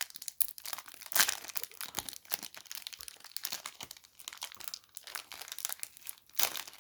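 Foil wrapper of a trading-card booster pack being crinkled and torn open by hand, in irregular crackles with louder rips about a second in and near the end.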